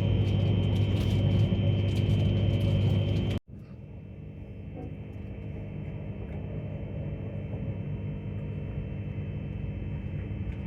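Tilt Train running: a steady humming rumble with a low drone, which cuts off abruptly about three and a half seconds in to a quieter, similar rumble that slowly grows louder.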